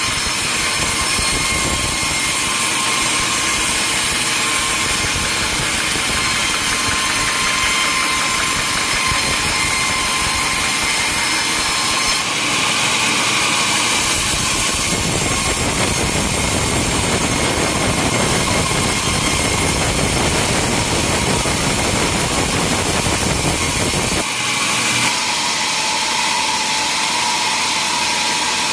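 Sawmill machinery running loudly as logs are sawn, with steady high tones over a rushing noise. The sound changes abruptly about twelve seconds in and again about twenty-four seconds in.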